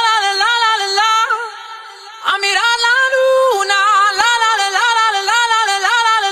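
Background music: a high solo singing voice with no beat or instruments under it, dipping briefly about two seconds in.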